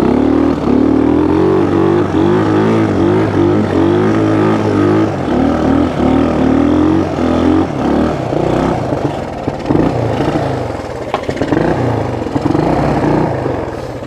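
1974 Honda XL175's single-cylinder four-stroke engine running under load as the bike is ridden through deep snow, its pitch rising and falling with the throttle and becoming rougher and less even after about five seconds.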